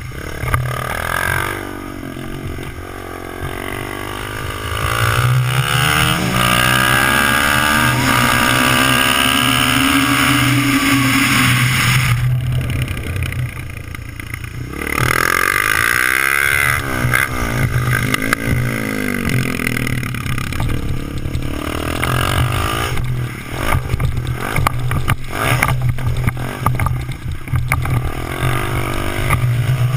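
Small dirt bike's engine revving up and falling back again and again as it is ridden, with a brief lull around the middle. In the later part, wind and knocks hit the bike-mounted microphone over the engine.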